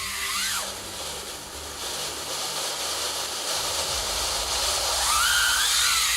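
Loud, steady hissing rush of a machine or spray, with a thin whine that glides up and down near the start and again near the end.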